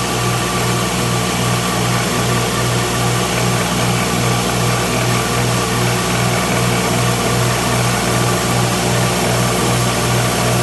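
Electric grinder running steadily: a constant motor hum under an even hiss.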